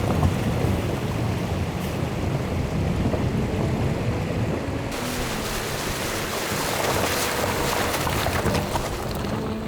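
Steady rushing noise with a deep low rumble, like wind buffeting the microphone; the hiss turns brighter about five seconds in.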